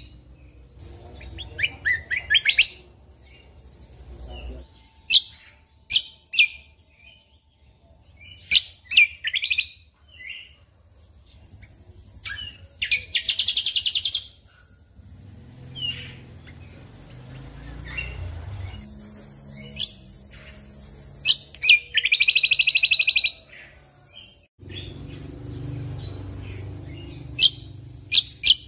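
Cucak kombo (kecial kombok) singing: bursts of rapid trilled notes, each about a second and a half long, alternating with short sharp chirps.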